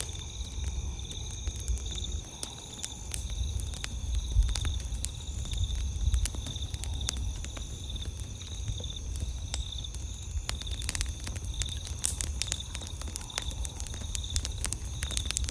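Wood campfire crackling, with frequent sharp pops and snaps over a low rumble. Behind it, night insects trill steadily in a high, pulsing chorus.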